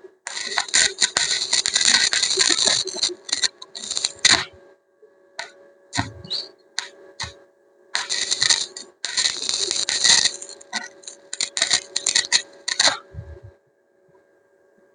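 Electric arc welding, the arc crackling and sputtering in two long runs with short bursts between, over a faint steady hum from the welding machine.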